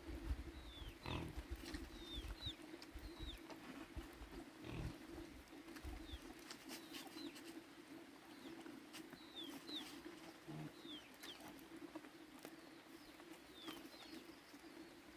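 Small birds chirping repeatedly with short falling notes over a steady low hum, with a few brief grunts from pigs and some low knocks in the first half.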